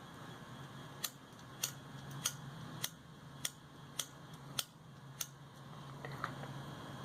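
A run of eight sharp clicks, evenly spaced a little more than half a second apart, starting about a second in, over a faint steady low hum.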